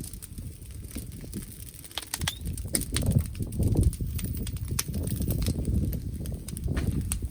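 Wood fire crackling with sharp irregular pops, and from about two seconds in, low rumbling gusts of wind buffeting the microphone.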